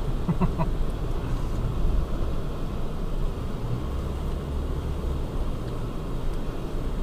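Steady low rumble of engine and tyres inside a moving vehicle's cabin, driving on a snow-covered road.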